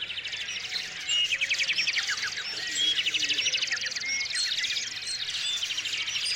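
Several small songbirds chirping and trilling together, fast trills of rapidly repeated notes overlapping short high chirps.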